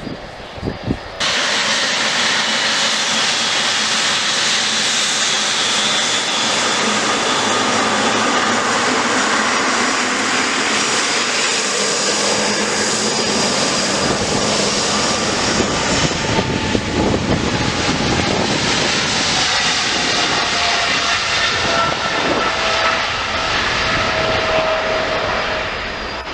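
Jet airliner's engines running loud, a dense roar with whining tones; one whine falls slowly in pitch over the last ten seconds. The roar starts suddenly about a second in.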